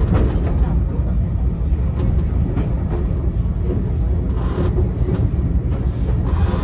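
Enoshima Electric Railway (Enoden) electric train running slowly and slowing as it pulls into a terminal platform, heard from the driver's cab: a steady low rumble of wheels and running gear.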